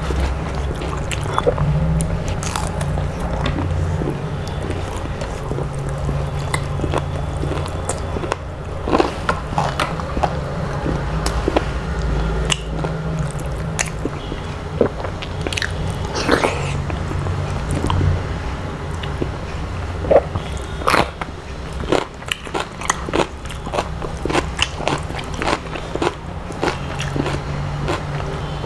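Close-miked chewing and biting of a meal eaten by hand, with many short crunches and mouth clicks scattered throughout.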